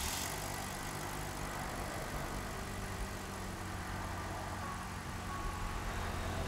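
A car engine idling: a steady, unchanging low hum.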